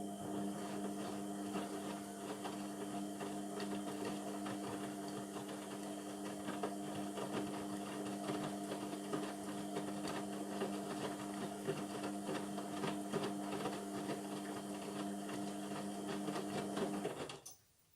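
Indesit MTWC71252WUK washing machine tumbling its wash: the drum motor runs with a steady whine, and the load rattles and clunks as the drum turns. The whine cuts off suddenly near the end as the drum stops.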